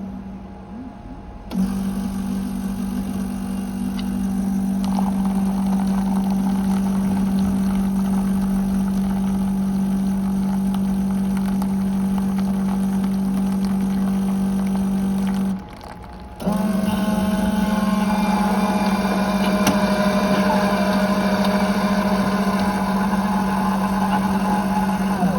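HLF Italian Design 2700 coffee machine's pump running with a steady hum, stopping for about a second around the middle and then starting again, with extra hissing and gurgling during the second run.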